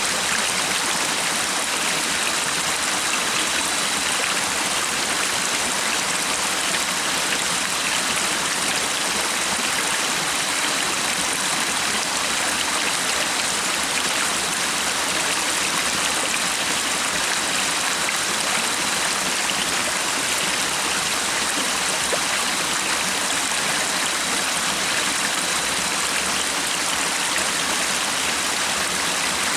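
Stream water flowing steadily in an even, continuous rush with no breaks or changes.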